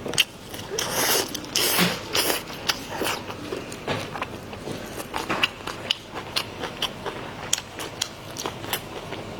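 Close-miked eating: a person biting and chewing food, with irregular wet mouth smacks and crunchy clicks, busiest in the first couple of seconds.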